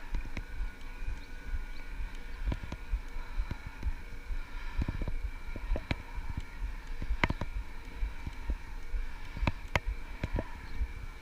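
Electric bike riding over a rough gravel track: a steady low rumble from the tyres, frequent sharp knocks and rattles over bumps, and a faint steady whine from the pedal-assist motor.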